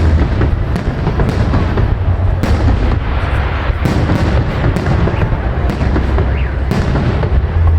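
Fireworks salute: shells burst overhead in an irregular run of booms, with dense crackling between them and a steady low rumble underneath.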